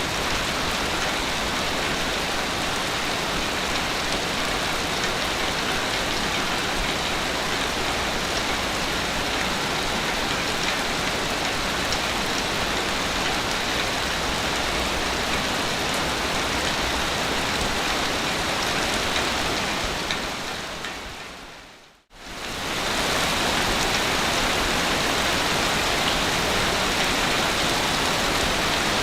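Steady, even wash of ocean surf on a beach. About twenty seconds in it fades out to a moment of silence and comes straight back in.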